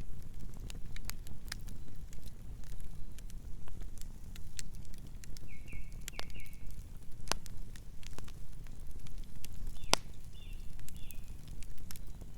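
Wood campfire crackling: irregular sharp pops and snaps over a low steady rumble of the flames, with one louder pop about ten seconds in.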